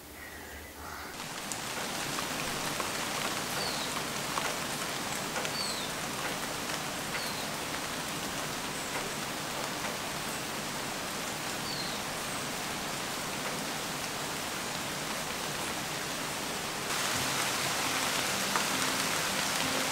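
Steady rainfall, an even hiss of rain on surfaces that swells about a second in, with a few faint short high chirps. Soft music comes in near the end.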